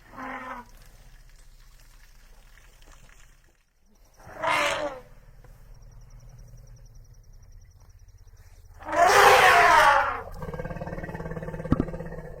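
Calls of a large animal: a short cry at the start, another about four and a half seconds in, and a louder, longer bellow at about nine seconds, followed by a lower drawn-out sound.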